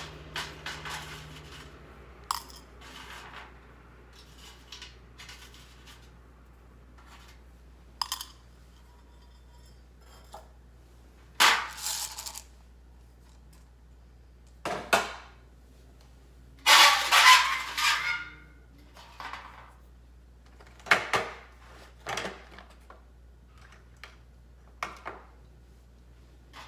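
Intermittent clinks, knocks and rattles of small metal gear being handled, with one longer rattle about two-thirds of the way in.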